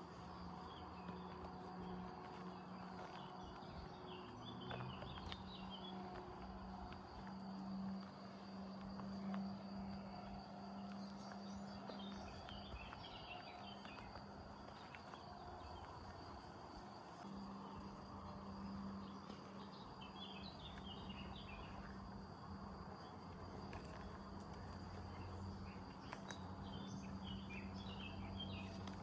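Countryside ambience: a steady, high insect chirring goes on throughout, with short bursts of bird twittering about every six to eight seconds. A low, steady hum sits underneath.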